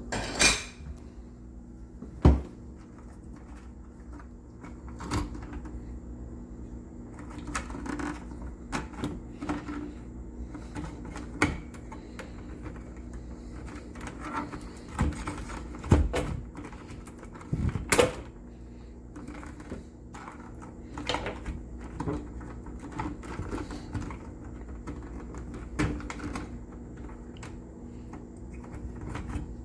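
Irregular clicks and knocks from hand work on the water heater's wiring, with a steady low hum underneath.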